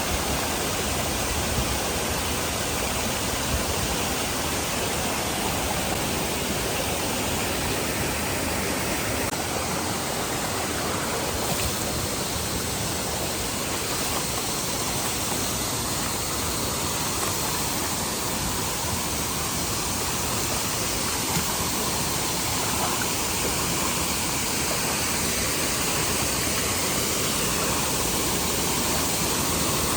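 Waterfall: a steady, loud rush of falling water that fills the whole range from low to high with no break.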